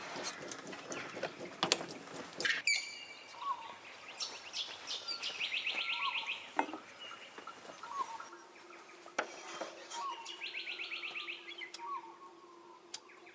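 Wild birds calling: two rapid, trilling bursts a few seconds apart, over short, lower notes repeated about every second. A few sharp clicks come in the first couple of seconds.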